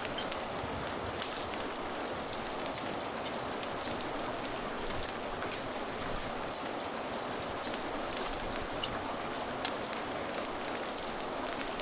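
Steady rain ambience, with scattered short sharp pops of a crackling fire mixed in.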